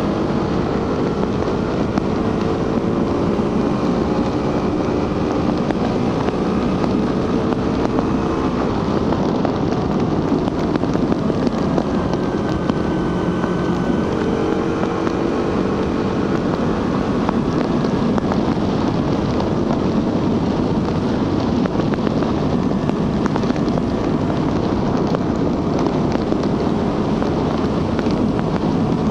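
Suzuki GSX-R150's single-cylinder engine running through its stock exhaust while under way, its note rising and falling gently with the throttle, with wind noise on the microphone.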